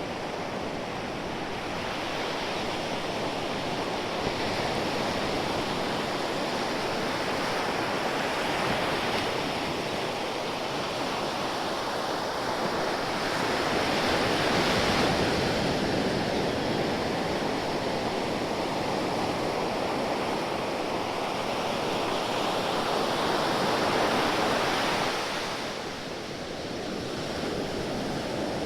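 Ocean waves breaking and washing ashore in a continuous surf, swelling and easing over several seconds, with louder surges about halfway through and again shortly before a brief lull near the end.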